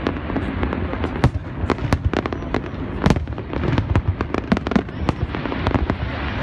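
Aerial fireworks going off in rapid, irregular succession: a dense volley of bangs and crackles, several a second, over a continuous low rumble.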